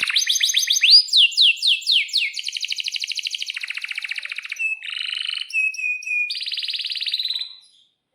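Male domestic canary singing a long song: a run of quick downslurred whistled notes, then fast rattling trills, a short steady whistle, and a last trill that stops near the end.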